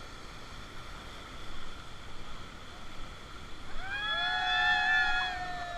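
Steady rush of river water. Near the end, several voices join in a loud, drawn-out shout for about two seconds.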